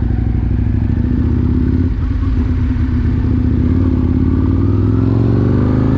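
Aprilia Tuono 1000R's V-twin engine running steadily, then revving up, its pitch rising over the last two seconds.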